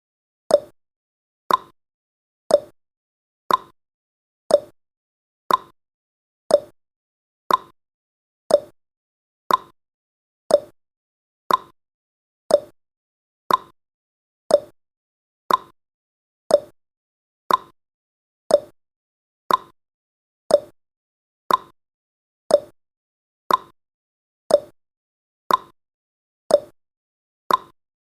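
Countdown timer's tick sound effect: a short, sharp tick once every second, evenly spaced.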